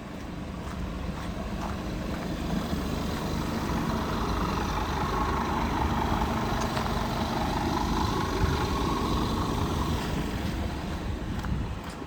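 Engine of a 2010 Scania Horisont coach running, growing louder toward the middle and then slowly fading.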